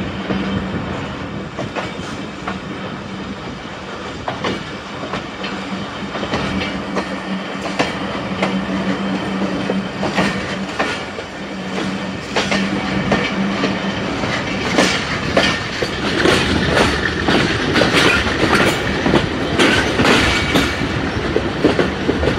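Moving passenger train's wheels clattering over the rails, heard through an open carriage doorway, with a steady hum under the first half. The clatter grows louder and busier in the second half as the train crosses the junction tracks.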